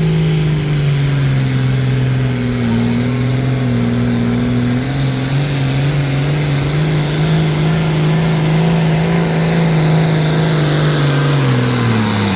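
Competition pulling engine held at full throttle under heavy load, dragging the weight sled down the track. The engine note stays high and steady for the whole run, sagging slightly as the load builds, and winds down at the very end as the pull finishes.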